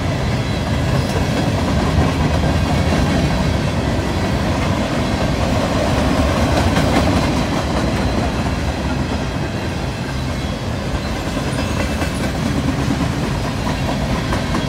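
Cars of a mixed freight train (gondolas, centerbeam flatcars, covered hoppers) rolling past close by: a steady rumble of steel wheels on rail, with scattered clicks as the wheels pass over the track.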